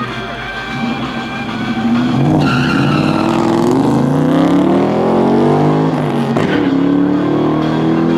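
Ford SVT Mustang Cobra V8 accelerating hard down a drag strip, getting louder about two seconds in. Its pitch climbs and falls back at each upshift.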